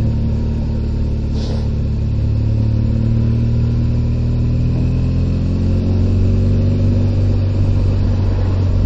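Motorcycle engine running steadily under the rider, its pitch rising a little about halfway through and then holding.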